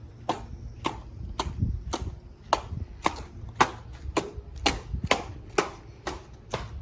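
Cushman Bean Special Cub hit-and-miss engine running, a sharp, evenly spaced beat of about two strokes a second over a low rumble.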